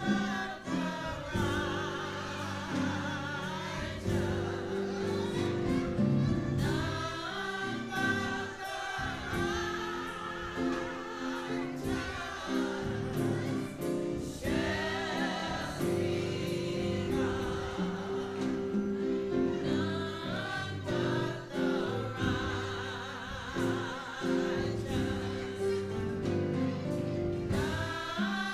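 Gospel choir singing with vibrato over sustained instrumental chords.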